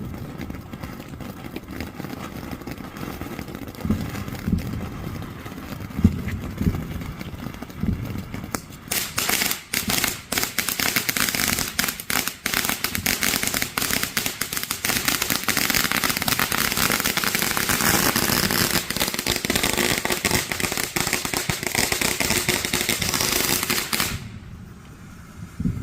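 Backyard consumer fireworks going off. A few dull thumps come first, then from about nine seconds in a dense run of rapid crackling pops over a hiss lasts about fifteen seconds and cuts off suddenly near the end.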